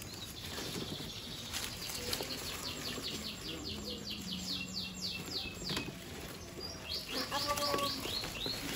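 A bird singing a rapid trill of high, downward-slurred notes, about five a second. There are two runs, the second starting about seven seconds in.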